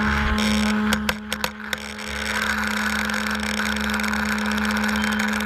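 A motor running steadily at one even pitch, with a few sharp clicks about a second in. It is switched off near the end, and its note falls away as it stops.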